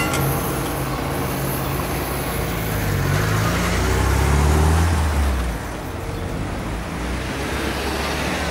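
Road vehicle engines running at a level crossing. A low engine note rises and grows louder about three to five seconds in, then drops away, like cars pulling off as the barriers lift.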